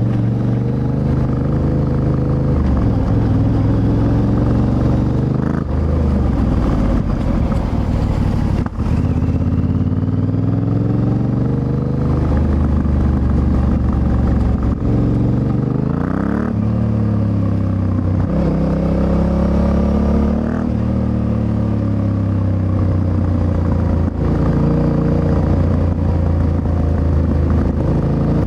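Yamaha Ténéré 700's CP2 parallel-twin engine through an Akrapovič exhaust, ridden hard on a winding road: the revs climb and drop again and again with short breaks at the gear changes.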